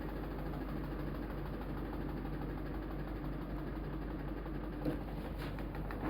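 LG WF-L800 washing machine running with a steady motor hum, with a short knock about five seconds in.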